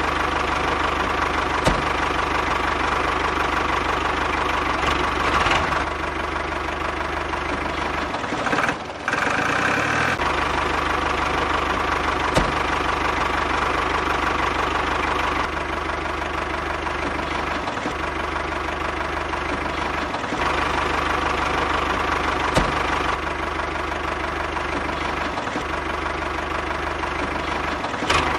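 A small motor running steadily on a homemade miniature tractor. It briefly drops and changes around nine seconds in, then runs on, with an occasional click.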